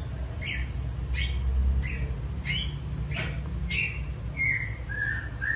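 A bird chirping in the background: short high chirps every second or so, then a quicker warbling run of rising and falling calls near the end.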